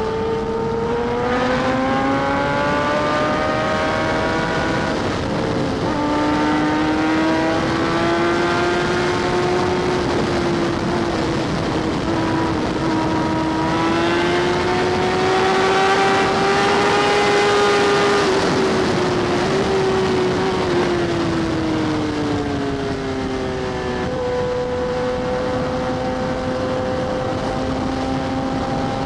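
Sport motorcycle's inline-four engine under way, most likely a Kawasaki ZX-10R. Its pitch climbs through a gear, drops at a shift about six seconds in, then rises slowly at high revs. It eases down after about twenty seconds and jumps up again near 24 seconds.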